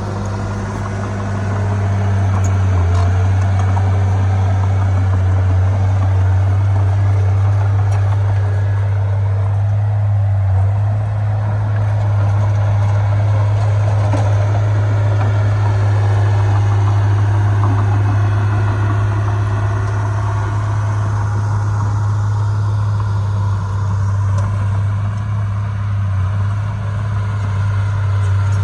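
Heavy diesel earthmoving engine running steadily with a deep, even drone.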